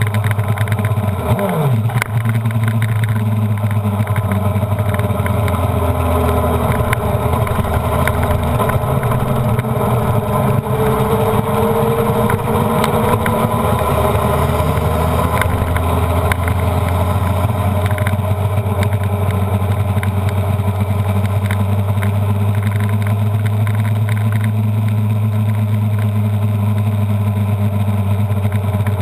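Honda CBR929RR's inline-four engine running at steady, moderate revs as the bike is ridden at an easy pace, with a brief falling change in pitch about a second in and a slow gliding shift around the middle.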